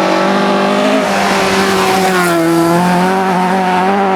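Rally car engine running hard at high revs, its note dipping about two seconds in and then climbing again.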